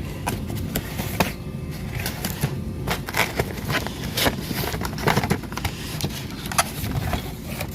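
Packaging being unwrapped by hand: irregular crinkling, rustling and clicking of wrapping material.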